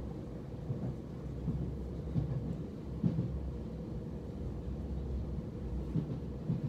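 Interior running noise of a Southern Class 377 Electrostar electric multiple unit in motion: a steady low rumble from wheels and running gear. Irregular knocks and bumps come through it, the strongest about three seconds in.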